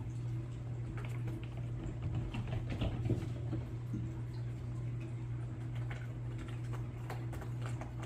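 Bengal kitten eating: quick wet chewing and smacking clicks, thickest from about one to four seconds in, over a steady low hum.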